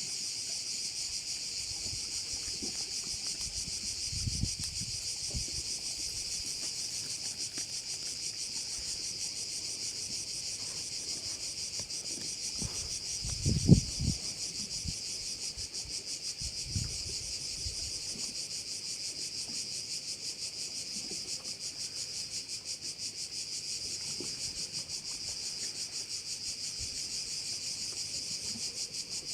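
Continuous high, fast-pulsing chorus of cicadas, steady throughout. A few brief low bumps break in, the loudest about halfway through.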